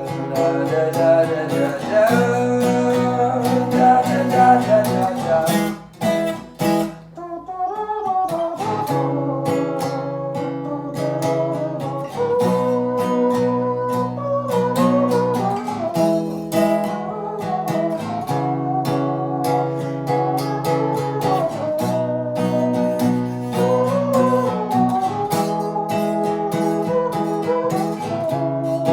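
Acoustic guitar strumming chords in a steady pattern, the instrumental close of a song. It briefly drops out about six seconds in, then comes back.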